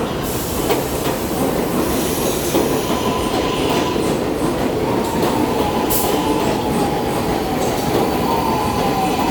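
New York City subway train running through an elevated station, a loud steady rumble of wheels on rails. About two seconds in a thin high tone joins it and holds, sagging slightly in pitch near the end.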